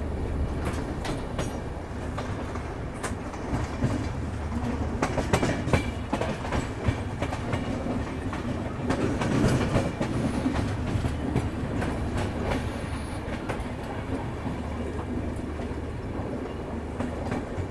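Double-decker express passenger train running at speed: a steady rumble of the coach, with irregular clicks from the wheels passing over rail joints.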